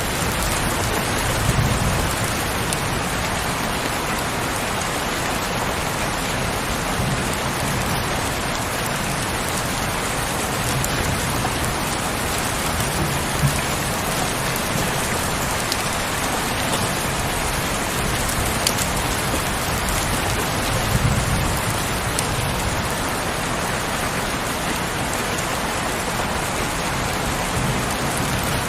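Heavy rain falling steadily, an even hiss of many drops with a few distinct drop ticks and occasional low swells of rumble.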